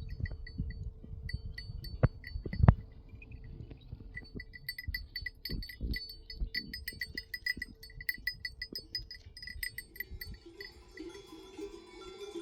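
Small metal livestock bells clinking and clanking irregularly as the animals move, many quick strokes at the same two pitches. Two sharp thuds about two seconds in, and music comes in near the end.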